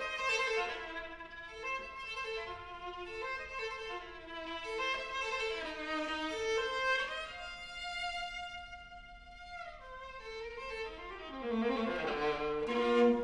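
Viola playing a slow melodic line of bowed notes. About eight seconds in it holds one long note that fades away, then a busier passage begins near the end.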